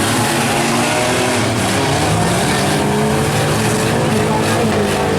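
Several demolition derby compact trucks and vans with their engines running hard together, overlapping engine notes rising and falling as they rev.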